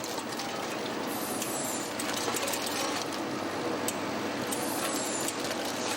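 Crisp factory machinery running steadily: a conveyor belt carrying crisps to the bagging machines, with a constant hum and a running clatter of small clicks.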